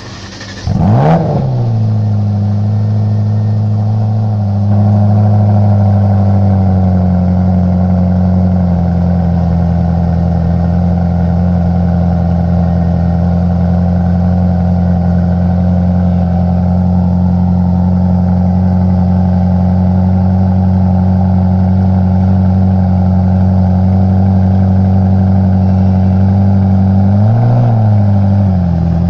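Ferrari F40's twin-turbo V8 starting cold: it catches about a second in with a short flare of revs, then settles into a steady fast idle. A brief blip of revs comes near the end.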